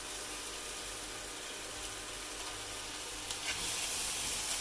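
Vegan mince sizzling as it fries in a hot nonstick pan, with a splash of soya cream just poured in; a steady hiss that grows a little louder as a slotted spatula stirs it through in the second half.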